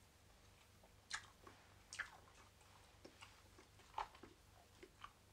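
Faint sounds of a man eating: chewing and mouth sounds, with a few short sharp noises, the loudest about one, two and four seconds in.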